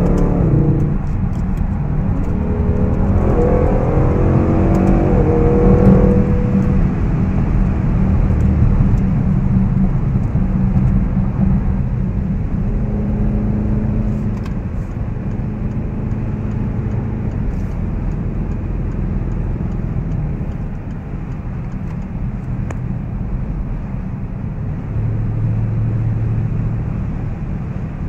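2014 Range Rover Sport's supercharged 5.0-litre V8 heard from inside the cabin, its note rising for a few seconds near the start as the car accelerates, then settling into steady cruising with tyre and road noise.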